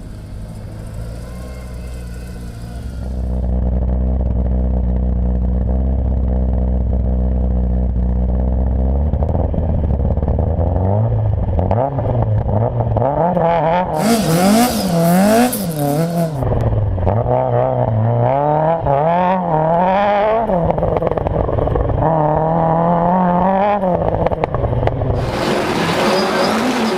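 Ford Escort RS1800 rally car's BDA twin-cam four-cylinder engine, first holding steady revs, then revving hard, its pitch rising and falling over and over with throttle and gear changes. Bursts of rushing noise cut in about halfway through and again near the end.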